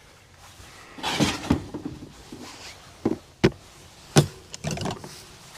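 Camping gear being handled: rustling and clatter with several separate knocks, the sharpest two clacks about three and a half and four seconds in.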